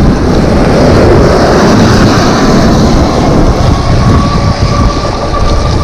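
Loud wind noise on the microphone mixed with the rush of tyres on a wet road while riding an e-bike in the rain. A faint steady tone comes in about two-thirds of the way through.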